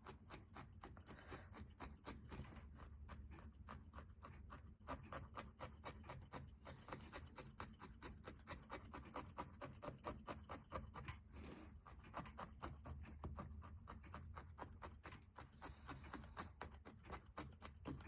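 Barbed felting needle poking up and down through wool roving, faint quick even strokes several times a second.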